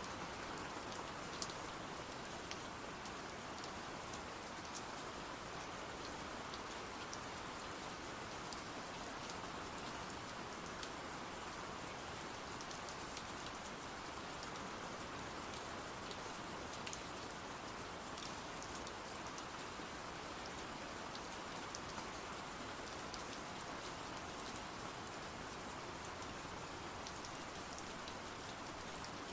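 Steady rain, an even hiss, with scattered small sharp ticks throughout.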